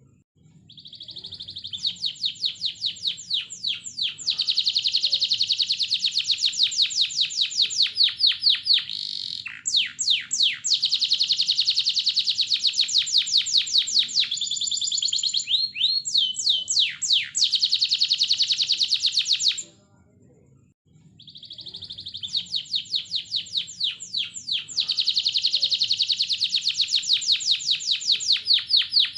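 Domestic canary singing long song phrases of fast trills and rapid runs of repeated notes, with a few sliding notes midway. The song stops for about a second and a half about two-thirds of the way through, then starts again.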